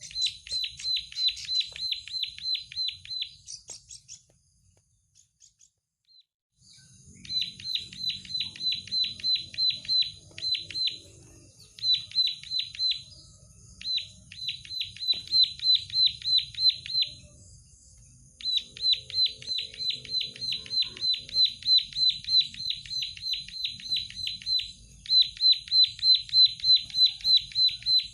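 A prenjak sawah (plain prinia) singing: long runs of the same sharp note repeated about eight times a second, each note dropping in pitch, with short pauses between runs and a longer quiet spell about four seconds in. A faint steady high whine runs under the song from about seven seconds on.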